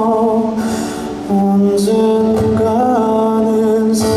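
Live band music with a male singer holding a long sung note, then starting the next sung line near the end, with light cymbal strokes in the accompaniment.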